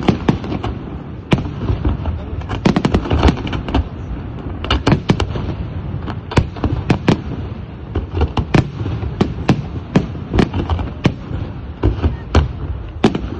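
Fireworks display: many sharp bangs in quick, irregular succession, several a second, over a continuous low rumble of further bursts.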